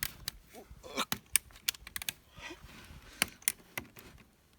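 Dry wood cracking and snapping in a run of sharp, irregular clicks, about ten of them, uneven in loudness.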